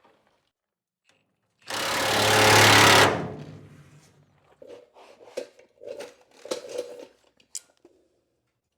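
A handheld power tool runs in one burst of about a second and a half, getting louder as it goes, as it loosens a bolt. Lighter metallic clicks and rattles follow from the tool and the hardware being handled.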